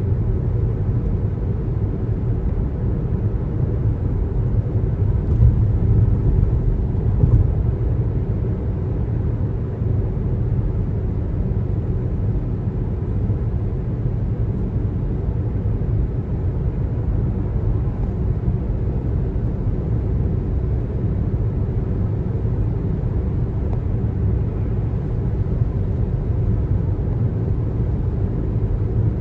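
Steady low road rumble of a car driving on the highway: tyre and engine noise, a little louder about five to seven seconds in.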